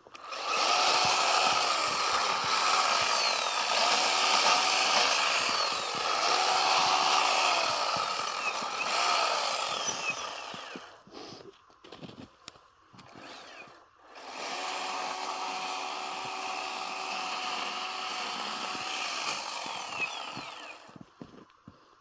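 Chainsaw cutting into a block of packed snow. For about ten seconds it is revved up and eased off several times. After a short pause it runs again, steadier and quieter, for about six seconds, then stops.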